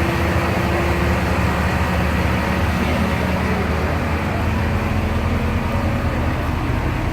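A vehicle engine running steadily with a low rumble, over a dense haze of background noise.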